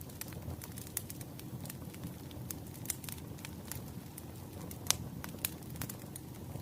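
Wood fire crackling, with irregular sharp pops over a low steady rumble and one louder pop about five seconds in.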